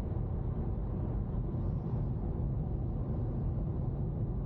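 A car driving along the road: steady low road and engine rumble with no change in level.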